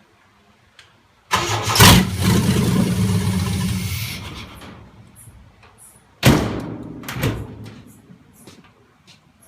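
Chevrolet 4.3 Vortec V6 making its first fire on starting fluid, with no fuel in the tank. It catches twice: a run of about three seconds, then a shorter one, each starting suddenly and dying away.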